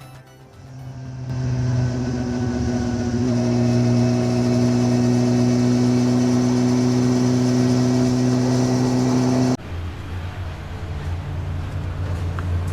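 A vehicle engine running at a steady speed, its pitch held nearly constant. It cuts off abruptly about ten seconds in, replaced by a lower, rougher traffic drone.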